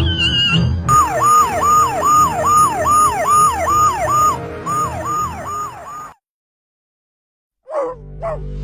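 Emergency-vehicle siren wailing in quick cycles, each one rising sharply and then sweeping down, about two a second over low background music. It cuts off suddenly about six seconds in, and after a short silence a few brief gliding tones come in as the music returns.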